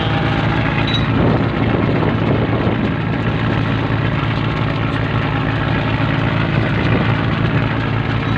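Fishing boat's engine running steadily at a constant speed, a loud, even, low hum that does not change in pitch.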